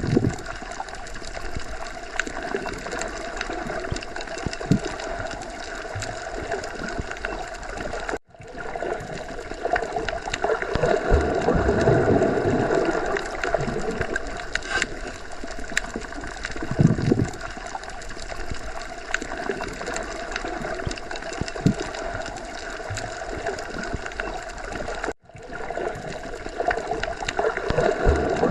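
Underwater ocean ambience: a steady watery wash with gurgling, slow swelling surges and small knocks. It cuts out for an instant twice, about 8 seconds in and again about 25 seconds in.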